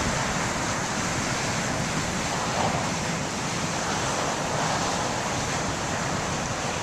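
Steady rush of heavy surf from big wind-driven waves breaking, with strong wind blowing.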